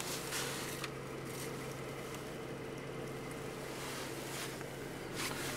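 2006 Renault Megane's engine idling, a steady low hum heard from inside the cabin.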